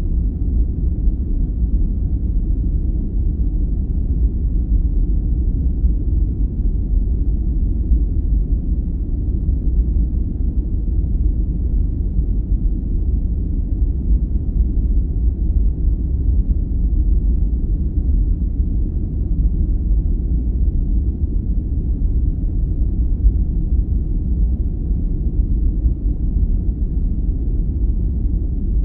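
Steady, deep noise played for sleep: an even low rumble with almost no high hiss, darker than true white noise, closer to brown noise. It doesn't change at all.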